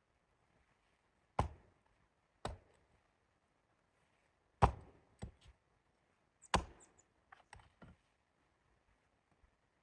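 Irregular sharp knocks: five strong strikes over about five seconds, then a cluster of lighter taps.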